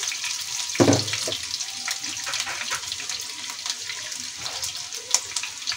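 Breaded chicken strips shallow-frying in hot oil: a steady sizzle with fine crackles, and one knock about a second in.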